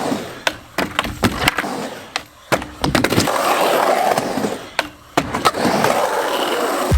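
Skateboard wheels rolling over concrete, broken by several sharp clacks of the board's tail and landings.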